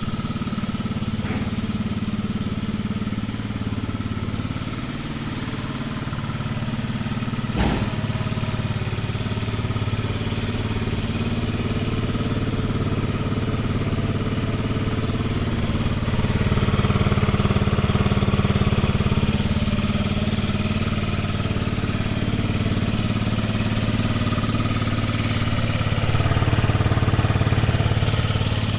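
Yamaha Jog scooter engine idling steadily, with one sharp knock about eight seconds in. Its note swells slightly twice, once after about sixteen seconds and again near the end.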